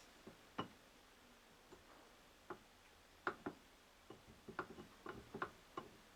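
Light, irregular clicks and taps of metal parts as a universal joint's cross and needle-bearing cup are worked together during assembly, coming more often in the second half.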